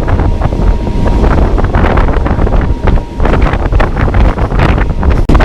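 Wind buffeting the microphone on a moving train, over a steady low rumble with frequent short knocks.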